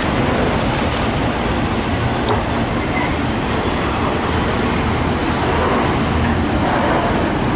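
Freight train with auto rack cars rolling past: a steady, loud rumble of wheels on the rails.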